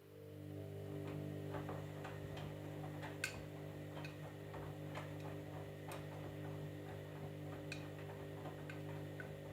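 Candy washing machine starting up a steady electric hum that builds over the first second and then holds at one pitch, with irregular light clicks and ticks over it.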